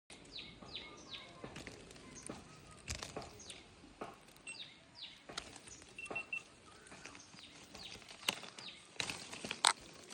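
Birds calling with short notes that sweep downward, often in quick runs of two or three, over a scatter of sharp clicks and knocks, the loudest of these near the end.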